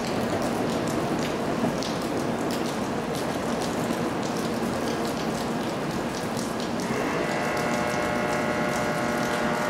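JR Kyushu 800 series Shinkansen pulling away from the platform: a steady rush of running noise with many light ticks. About seven seconds in, a cluster of steady high tones joins it.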